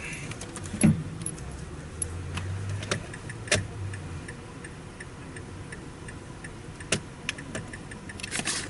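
Irregular light clicks and small rattles from meter probes and a wiring connector being handled, over a faint regular ticking of the turn-signal indicator.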